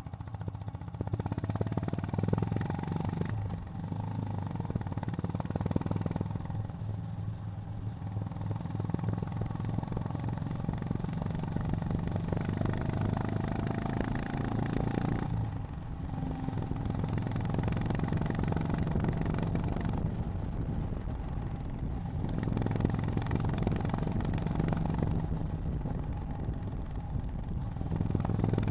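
Honda GB350's air-cooled single-cylinder engine running under way, with the engine note dipping briefly about three times: a few seconds in, about halfway through and about three quarters through. Before the middle dip the pitch climbs as it pulls harder.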